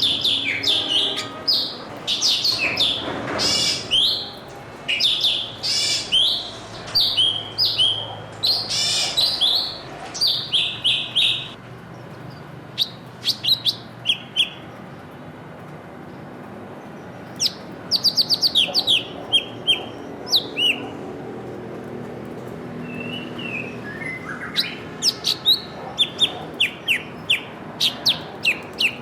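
Small songbirds chirping and twittering, busiest in the first ten seconds, then a few scattered chirps, a quick string of short chirps about eighteen seconds in, and more chirping near the end.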